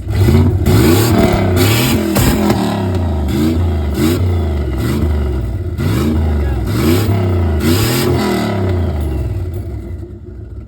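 Turbocharged Dodge pickup engine being revved hard over and over, about eight quick rises and falls in pitch with a rush of hiss at each peak, then dropping back to idle near the end.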